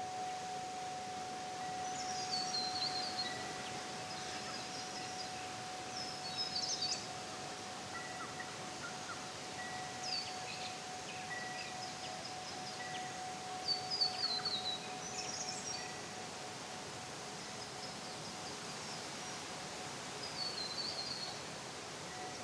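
Forest birds singing: short, high, falling phrases every few seconds, the loudest about two seconds in, about seven seconds in and about fourteen seconds in. Steady background hiss, with a thin steady tone running underneath.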